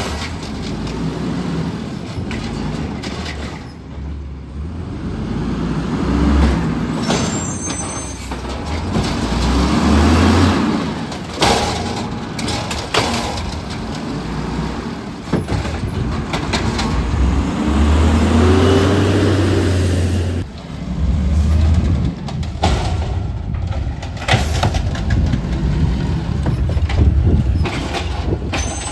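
Diesel garbage truck running at close range, its engine speed rising and falling several times, with a few short sharp hisses that sound like air-brake releases.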